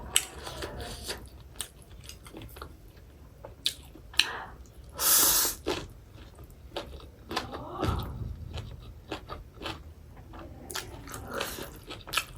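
Close-miked chewing of fried chicken gizzard, a tough, chewy meat: a run of wet mouth clicks and small crunches, with a louder noisy burst about five seconds in.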